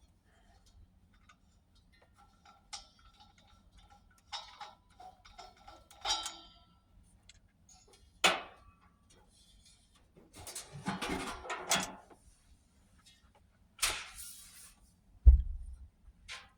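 Handling noises from a propane tank's hose fitting and tank: scattered metal clicks and clinks, a few ringing briefly, and a rustling stretch in the middle. A heavy low thump near the end is the loudest sound.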